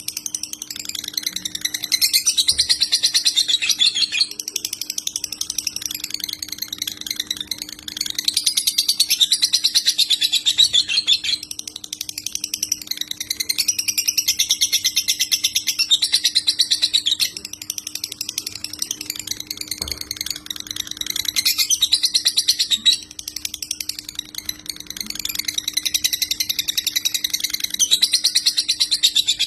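Lovebird singing the long, rapid, unbroken chatter of a 'konslet' lovebird, in phrases several seconds long separated by brief dips. A faint steady hum runs underneath.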